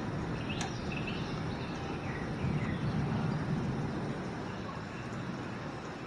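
Distant thunder rolling in a low rumble, swelling about halfway through and then fading.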